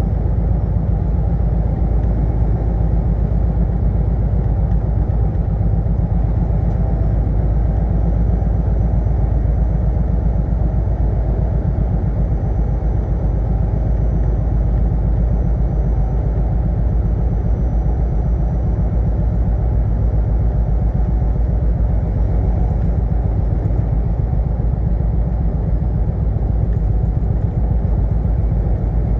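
Semi truck driving, a steady low road and engine rumble with no change in level.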